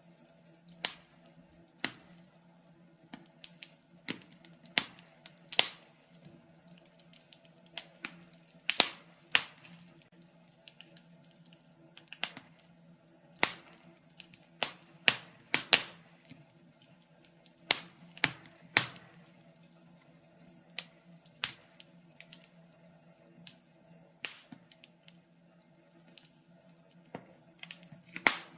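Wood fire in a fireplace crackling: irregular sharp snaps and pops, about one or two a second, some much louder than others, over a faint steady low hum.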